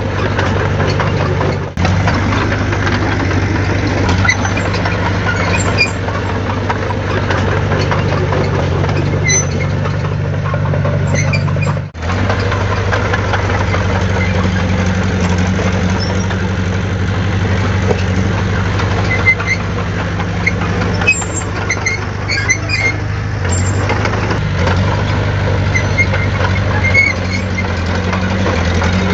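Heavy diesel engine of earthmoving machinery running under load, its note shifting up and down in steps. The sound drops out for an instant twice, near 2 s and again near 12 s.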